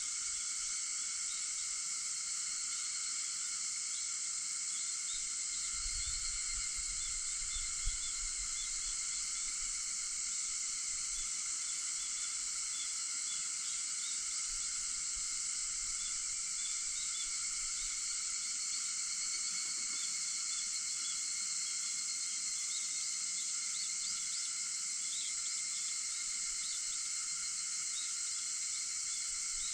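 A steady, dense chorus of cicadas making a high continuous drone, with faint chirps over it. A soft low thump about eight seconds in.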